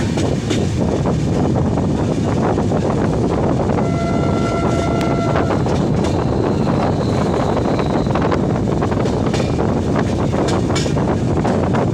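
Steady rumble and rushing wind noise of a moving vehicle, with a short horn-like tone about four seconds in.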